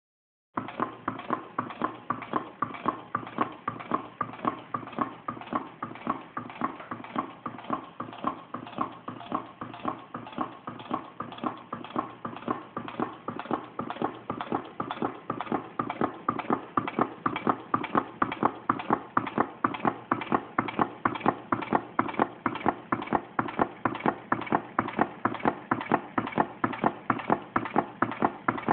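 Homemade tin-can Stirling engine running, its moving parts clicking in a fast, even rhythm with each turn. The clicking starts about half a second in and grows louder about halfway through.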